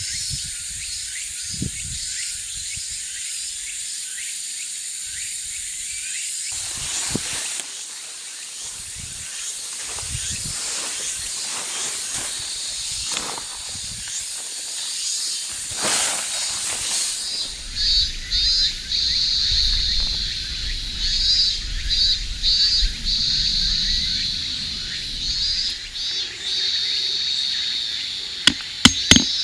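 Outdoor campsite ambience: a steady high hiss, with scattered knocks and rustles from about a quarter of the way in and a pulsing high chirping in the second half. Near the end come several sharp hammer strikes in quick succession.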